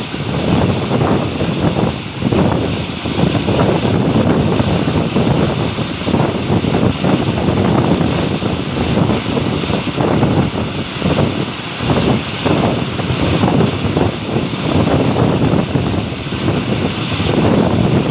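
Passenger train running: a loud, steady rumble and rush that wavers without a break, with wind buffeting the microphone.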